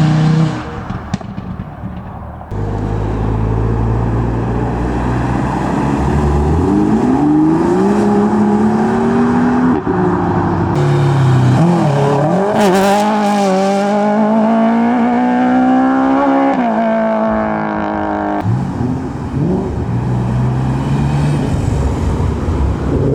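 Modified tuner car engines revving and accelerating hard away, one car after another, each engine note climbing in pitch as it pulls away.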